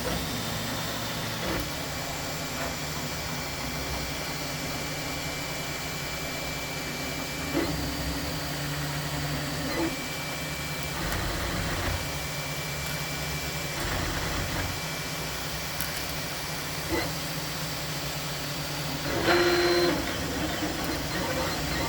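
Dremel 3D20 3D printer running: a steady fan hiss under stepper motors whining at tones that switch pitch every few seconds as the print head moves. A few light clicks, and a louder flurry of movement about nineteen seconds in.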